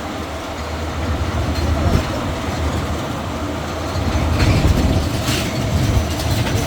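Tourist road train running, with a steady low rumble of engine and wheels on the road. A few knocks and rattles come about two-thirds of the way through.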